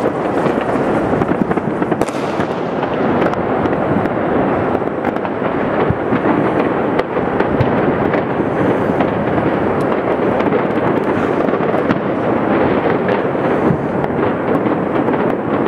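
Dense, continuous barrage of fireworks and firecrackers: countless overlapping bangs and crackles with no let-up.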